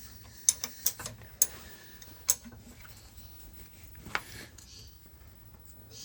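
Steel Whitworth spanner clinking on nuts and machine metal as it is fitted and worked, a few sharp separate metallic clicks in the first couple of seconds and another about four seconds in.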